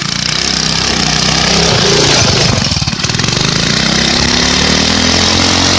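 Arctic Cat minibike's small engine going from a slow idle to full throttle at the start, then running hard at high revs, dipping briefly about halfway before pulling up again.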